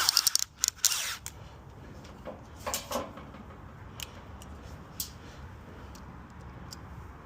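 Hand tools and metal parts being handled: a cluster of sharp clicks and knocks in the first second, a brief louder scrape about three seconds in, then scattered single clicks over a steady low hum.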